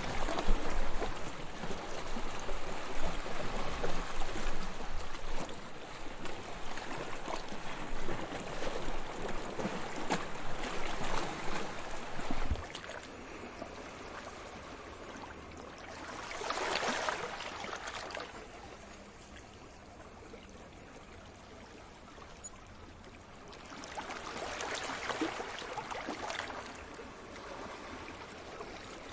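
Ocean waves breaking and washing ashore: a loud rush of surf that drops off suddenly about twelve seconds in, followed by two smaller waves that swell and fade.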